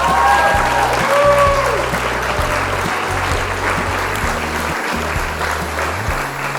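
Battered chicken pieces frying in hot oil, a dense steady sizzle and crackle, over background music with guitar.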